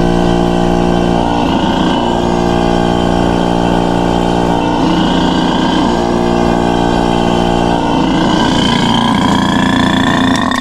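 A machine running steadily with a hum of several pitches while refrigerant is drawn out of a car's air-conditioning system; the hum shifts a few times, and a higher whine rises near the end before the sound cuts off suddenly.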